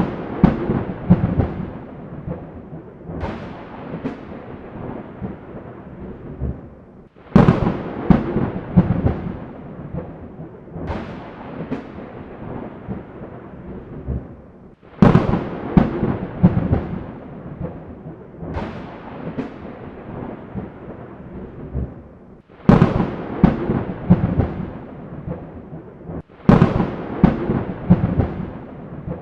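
Thunderstorm thunder: a sharp, loud crack every few seconds, five big ones in all, each rolling off into a long, falling rumble.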